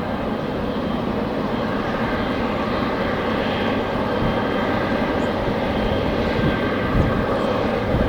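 Airliner jet engines running with a steady roar and a faint whine, while strong wind buffets the microphone in uneven low gusts.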